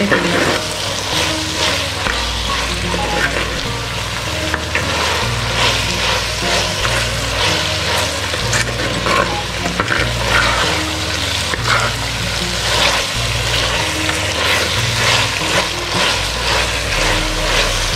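Shallots, dried red chillies and ginger-garlic paste sizzling in hot oil in a clay pot, stirred and scraped with a metal ladle. A slow, low background tune runs underneath.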